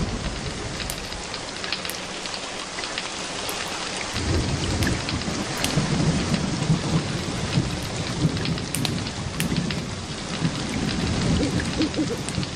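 Steady rain with rolling thunder, a low rumble that swells from about four seconds in, and scattered sharp crackles.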